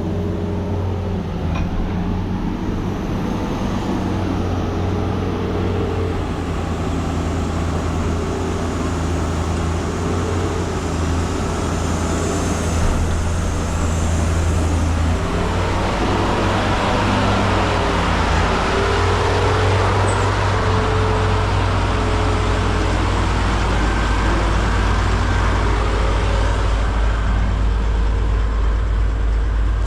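Heavy truck's diesel engine running, with a steady low drone and tones that rise and fall a little as the engine speed shifts. About halfway through, a broader rushing noise grows louder and stays.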